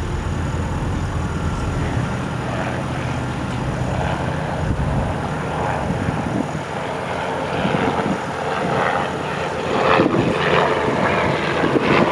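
Engine running steadily with a low drone, joined in the second half by irregular, louder rough noise.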